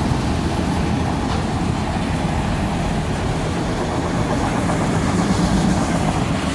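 Freight train cars rolling past on the rails with a steady, loud rumble of wheels and rail noise. The brakes are applied and smoking a little.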